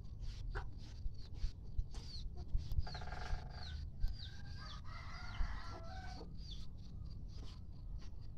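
Free-range village chickens: short high peeps repeat throughout, with a longer pitched call about three seconds in and a rooster crowing about five seconds in.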